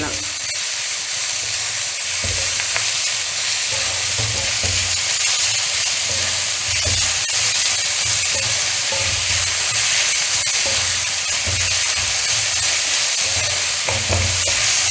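Sliced onions, green chillies and curry leaves sizzling steadily in coconut oil in a cheenachatti, with irregular soft knocks as they are stirred in the pan; the onions are being sautéed until they wilt and turn brown.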